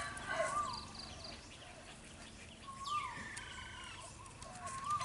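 Birds calling: several short whistled calls that rise and fall in pitch, and one call sliding steeply down in pitch about three seconds in.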